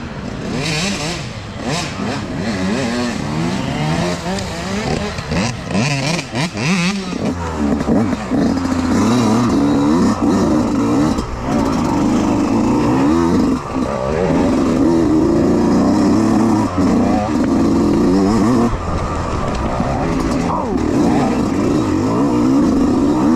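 Youth dirt bike engines racing past, several at once, revving up and down through the gears. They grow louder about a third of the way in and hold there.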